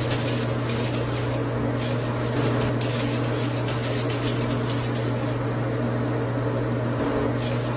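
A steady machine hum: a constant low drone with hiss over it, which starts and cuts off abruptly.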